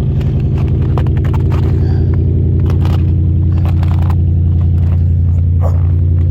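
Mercury Grand Marquis V8 idling steadily right after a cold start at about 30 below zero.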